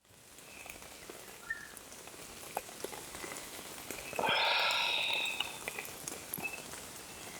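Rain falling, with scattered drops tapping sharply over a steady patter; it fades in at the start and swells louder for just over a second about four seconds in.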